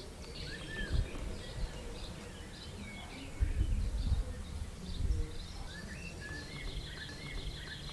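Birds chirping in short high calls, with low rumbles between about three and a half and five seconds in.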